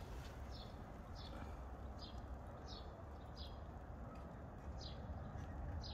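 A bird calling repeatedly outdoors: short, high chirps that fall in pitch, about one every 0.7 seconds, faint over a steady low rumble.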